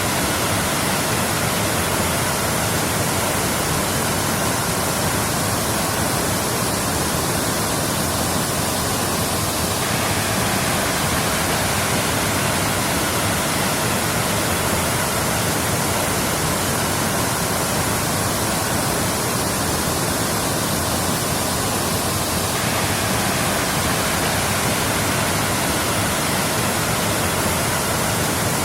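Waterfall: falling water rushing in a steady, even roar with no breaks.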